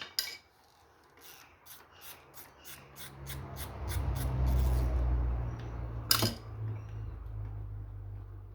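Ratchet wrench clicking rapidly, about four or five clicks a second, as it works the clutch nut on a Honda CG 125 Titan engine. Then a low rumble of the engine being handled, with one sharp metallic clack about six seconds in.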